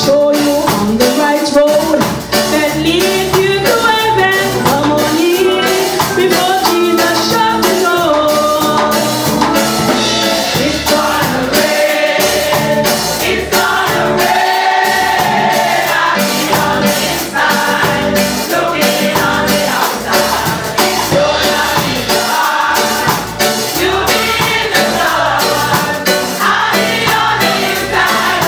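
Combined church choir singing a gospel song, many voices together, over a band with a steady percussion beat.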